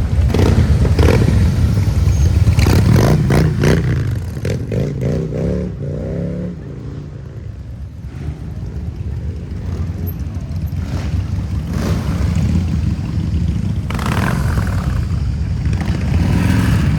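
Harley-Davidson V-twin motorcycle engine running loud, with a quick run of sharp cracks about three seconds in. Its pitch then falls and the sound fades to a lower rumble in the middle before building up again near the end.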